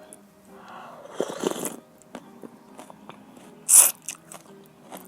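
Close-up eating sounds: crunching and chewing, a stretch of crunchy chewing about a second in, then one short, loud, sharp crunch nearly four seconds in.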